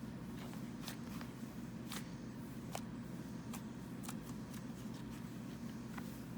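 Hands squeezing and stretching a cloud slime, making scattered soft clicks and crackles at irregular intervals over a low steady hum.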